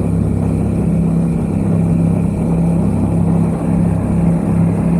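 Yamaha XSR700's parallel-twin engine, fitted with a MiVV aftermarket exhaust, running at a steady cruising speed with no change in pitch, over a haze of riding noise.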